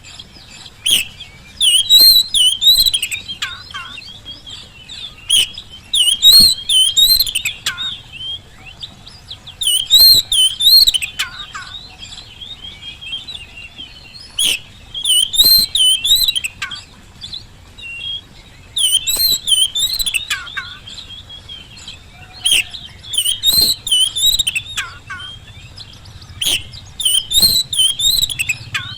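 Oriental magpie-robin singing loudly in fast, warbling phrases of varied whistled notes, a burst of song every few seconds with short pauses between.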